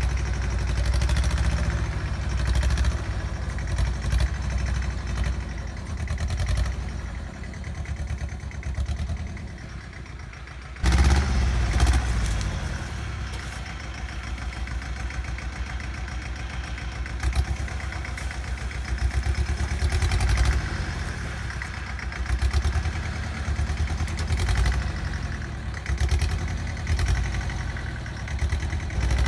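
Bolens G194 garden tractor engine running steadily while the tractor drags a scraper blade through dirt. The engine eases off for a few seconds, then comes back suddenly louder about a third of the way in.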